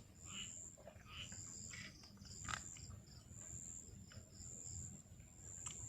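Insects trilling in a high, even tone that comes in repeated pulses of about half a second, with a faint click about two and a half seconds in.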